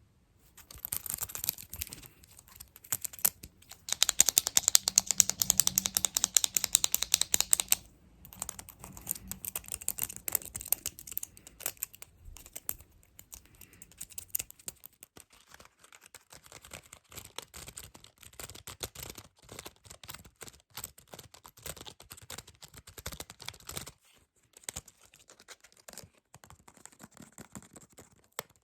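Fast tapping and scratching close to the microphone, a dense run of quick clicks. The clicks are loudest and most rapid from about four to eight seconds in, then turn lighter and more scattered.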